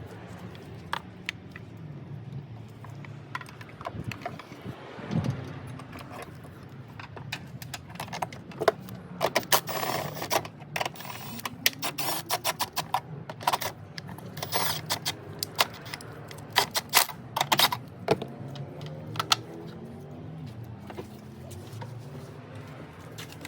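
Irregular metallic clicking and rattling, busiest in the middle stretch, over a steady low hum.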